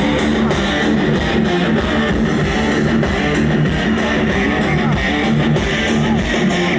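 Live rock band playing loudly, with distorted electric guitars, bass and drums.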